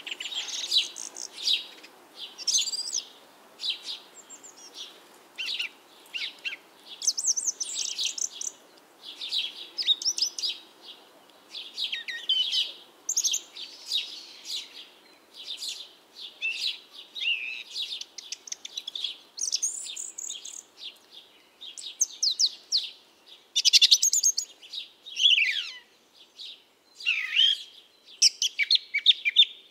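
Small birds chirping and singing in quick, overlapping high calls, with a few sharp downward-sliding notes near the end.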